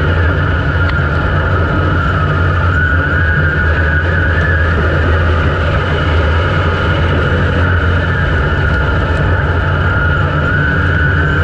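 IMCA dirt modified's V8 engine running at a steady speed, heard from a camera mounted on the car, with a thin wavering whine above the engine note.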